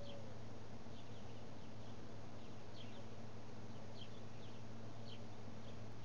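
Faint, short high chirps of small birds at irregular intervals over a steady low hum.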